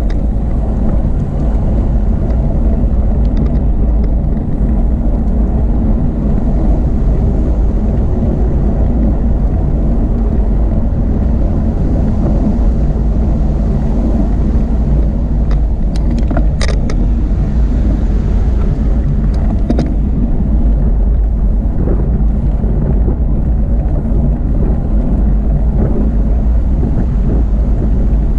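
Steady wind noise buffeting the microphone of a camera riding on a moving bicycle, with a few brief high-pitched ticks a little past halfway.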